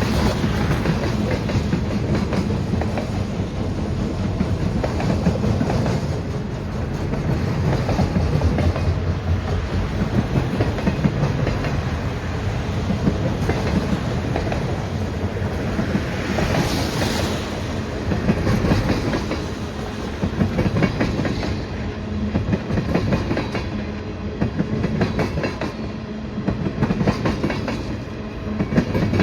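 Freight train cars rolling past, their wheels clattering steadily over the rail joints, with a brief higher-pitched hiss about halfway through.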